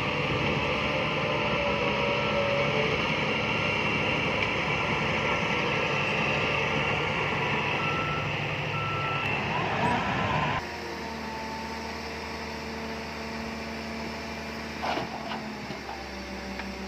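Heavy diesel earthmoving machinery working, with a reversing alarm beeping over the engine noise. About two-thirds of the way in, the loud working noise cuts off abruptly to a quieter, steady engine drone, with a single knock a few seconds later.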